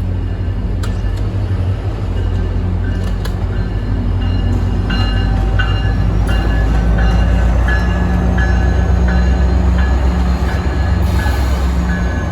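A train running past with a heavy, steady rumble. From about five seconds in, a high ringing repeats about twice a second over it.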